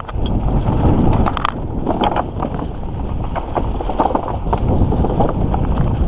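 Mountain bike riding over a dirt trail: steady tyre rumble with many small clicks and rattles from the bike over rough ground.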